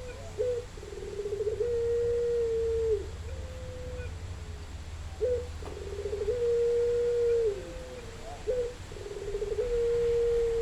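Puter (Barbary dove) cooing over and over. Each phrase is a short upward note, a quick rolling trill, then a long steady coo that drops at the end, repeated about twice.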